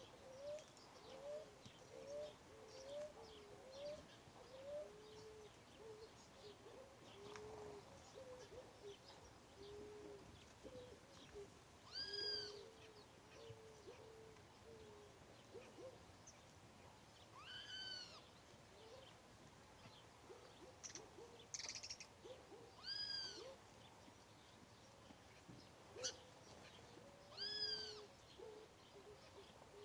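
Birds calling: a string of short, low hooting notes, quick in the first few seconds and more spaced out after, and a louder, higher call that rises and falls, repeated about every five seconds.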